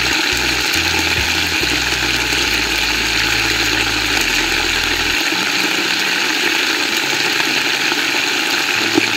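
Beef liver frying in a hot pot, giving a steady sizzling hiss as the sliced onions and green peppers go in.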